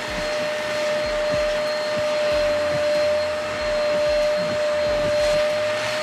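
Hoover Spotless portable spot cleaner running steadily, its suction motor giving a constant whine over a rushing noise.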